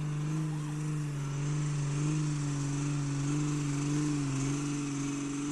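An engine running steadily at an even, low pitch that wavers slightly.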